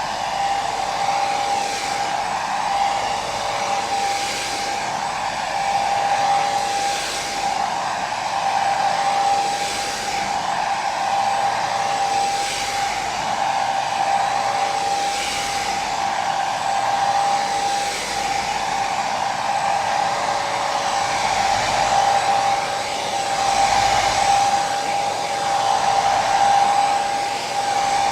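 Hair dryer running continuously: a steady rush of air with a constant motor whine, swelling gently every two to three seconds.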